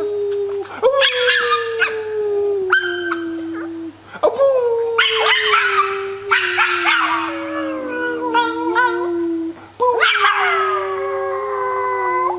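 A dog howling in long drawn-out notes that each slide slowly down in pitch, new howls starting about a second, four seconds and ten seconds in, with short higher cries over them.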